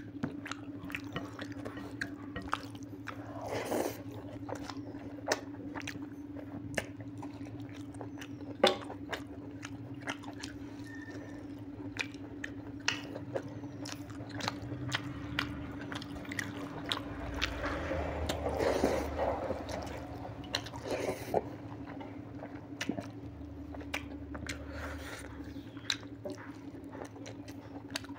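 A person chewing rice and mutton curry eaten by hand, with many small wet mouth clicks and smacks throughout, over a steady low hum.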